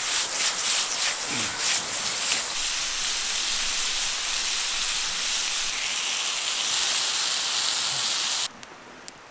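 Chicken sizzling in a hot pan, a dense hiss with crackles in the first couple of seconds, cutting off suddenly near the end.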